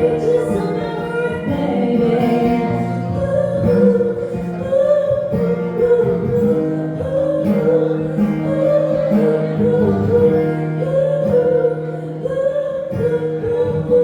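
A woman singing a song live over acoustic guitar accompaniment.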